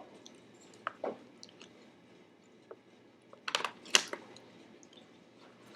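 Someone chewing crisp dried seaweed snacks close to the microphone: scattered small crunches, with a cluster of louder, sharper crunches about three and a half seconds in.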